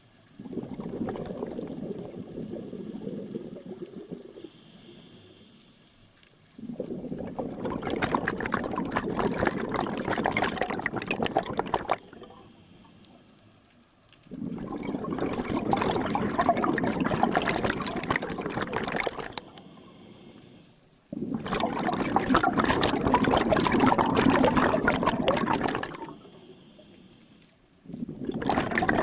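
Scuba diver breathing through a regulator underwater: long bubbling rushes of exhaled air, each lasting about five seconds, alternate with short quieter inhalations that carry a faint hiss, in a slow cycle of about seven seconds.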